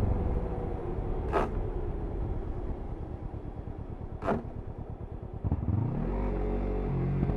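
Kawasaki Ninja 300's parallel-twin engine coming off the throttle, revs falling away and burbling unevenly on the overrun, with two sharp clicks a few seconds apart. Near the end the throttle opens again and the revs climb, then hold steady.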